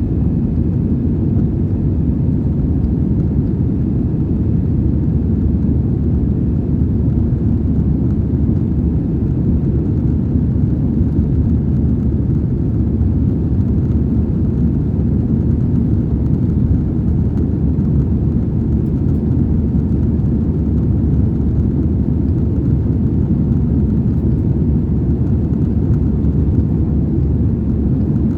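Steady low rumble of an Airbus A320's jet engines and airflow, heard from inside the passenger cabin.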